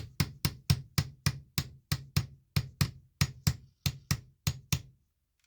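A hammer striking a rock in a quick, even run of about four blows a second, tapping at its edge to split it open along its layers. The blows stop abruptly near the end, and the rock has not split.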